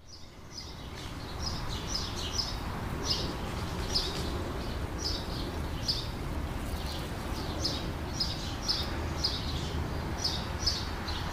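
Birds chirping: many short, high chirps, one or two every half second or so, over a steady low background rumble.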